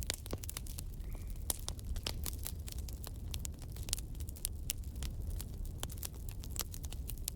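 Wood fire burning in a fireplace: a low steady rumble of the flames with many sharp, irregular crackles and pops from the burning logs.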